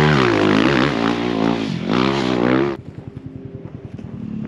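Motocross dirt bike engine revving hard, its pitch climbing and dropping twice as the rider works the throttle on the track. It cuts off sharply about two-thirds through, leaving a much quieter low hum with a fast, even pulse.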